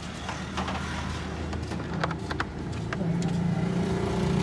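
A few sharp clicks, then about three seconds in the Toyota GLi's 2NZ four-cylinder engine starts running steadily, its valve tappets freshly adjusted.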